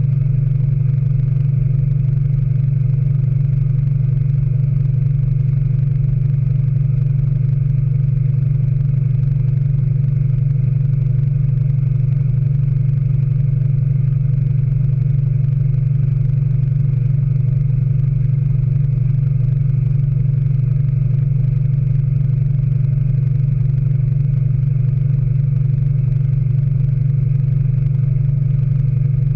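Speed Queen 9 Series washing machine in its final spin, running steadily at speed with a deep, even hum.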